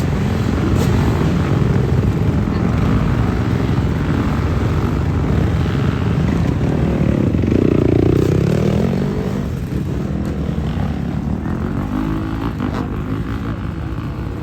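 Dirt bike engine running loud, with its pitch rising as it revs up about halfway through.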